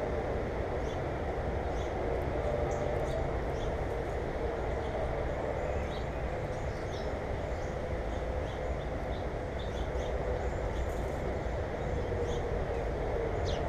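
Small birds giving short, high chirps again and again over a steady low rumbling noise.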